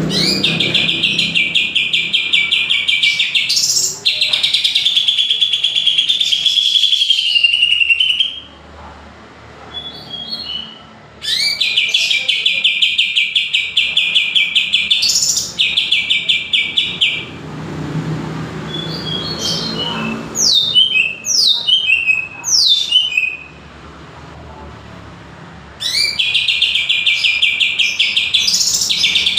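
Greater green leafbird (cucak ijo) singing: long phrases of rapid, buzzing trills, each a few seconds long with short pauses between. In the middle comes a run of sharp whistled notes sweeping steeply downward.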